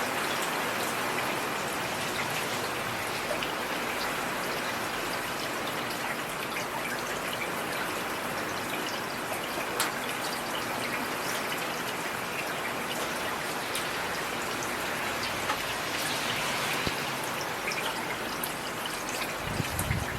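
Heavy rain falling steadily, a dense even hiss with many fine individual drop impacts scattered through it.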